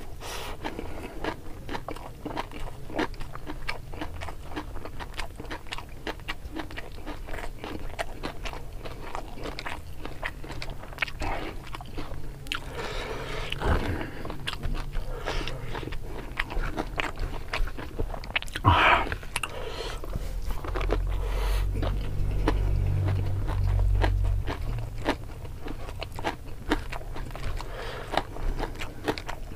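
Close-miked chewing and crunching of mouthfuls of rice, spicy fish and raw pea eggplants eaten by hand, with many small wet clicks and mouth smacks. A low rumble swells for a few seconds in the second half.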